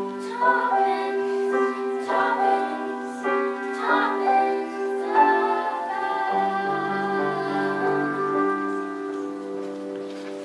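Singing by girls or women over a sustained accompaniment, the closing held notes of a song dying away near the end.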